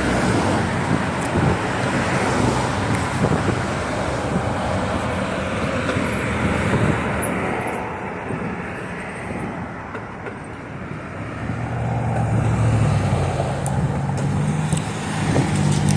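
Road traffic: vehicles passing, easing off about two-thirds through, then a low engine hum building as another vehicle approaches.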